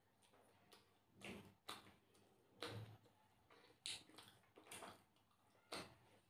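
Faint, close mouth sounds of someone eating: soft, irregular clicks and smacks from chewing a mouthful of rice, roughly one every half second to a second.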